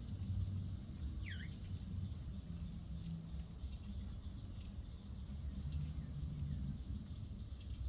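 A backyard bird gives a single short, falling chirp about a second in, with fainter chirps near six seconds, over a steady low rumble.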